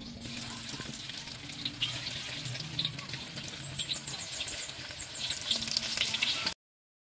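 Corned beef balls (bola-bola) frying in hot oil in a steel wok: a dense sizzle with many sharp crackles that gets louder toward the end. It cuts off suddenly near the end.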